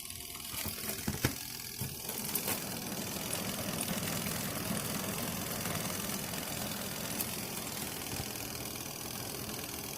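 Mini twin-tub portable washing machine starting up: a few clicks in the first two seconds, then its electric motor runs with a steady hum.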